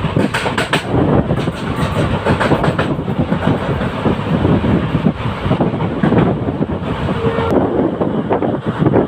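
Passenger train running at speed, heard from on board: the coach rattles and the wheels clatter irregularly over the rails.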